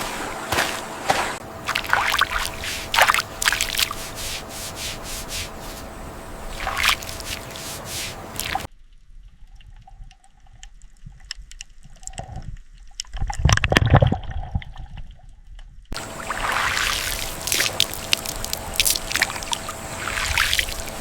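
Rain or hail falling: water dripping and splashing under a constant hiss scattered with sharp ticks. It cuts off suddenly to a much quieter stretch in the middle, where a loud low thump comes about 13 seconds in, then the ticking downpour returns.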